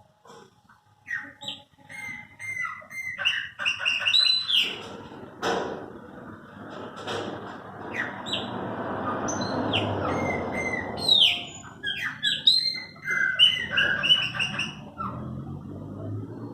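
Chopi blackbirds (pássaros-pretos) singing: a run of short whistled notes and chirps, some gliding, coming thick and fast, over a rushing hiss in the middle stretch.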